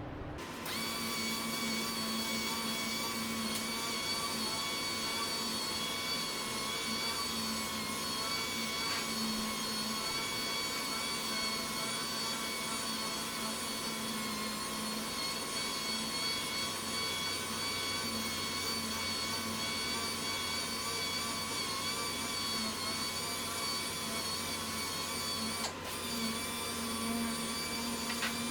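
Double-action sander running steadily at low speed, sanding fresh paint with 1300-grit paper, over the hum of a spray-booth fan. It starts with a steady whine about a second in and has one brief break near the end.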